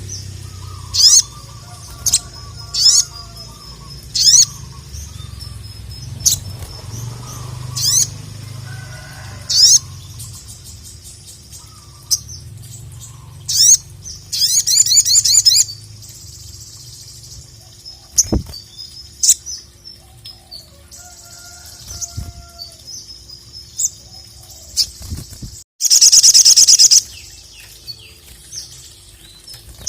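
Sogok ontong (sogon) singing: a string of sharp, high, down-slurred chirps about a second apart, a fast rattling trill about halfway through and a loud dense burst of song near the end.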